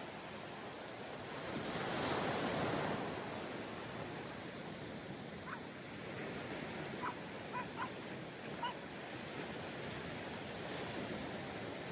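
Surf washing onto a beach, with one wave breaking louder about two seconds in. A few short, high calls sound around the middle.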